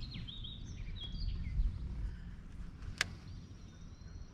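Small birds chirping in quick short notes over a low steady rumble, with one sharp click about three seconds in.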